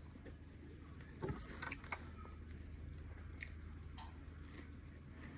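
Eating sounds close to the microphone: a few sharp bites and mouth clicks, the loudest cluster about a second and a half in, over a steady low hum.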